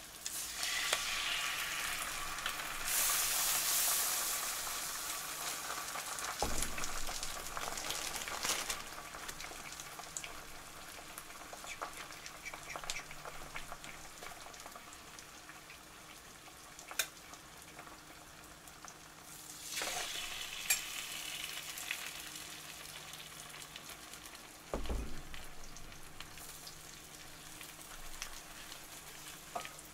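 French toast slices frying in butter on an electric griddle: a steady sizzle that swells louder near the start and again about two thirds of the way through, with scattered small clicks and a couple of soft low bumps.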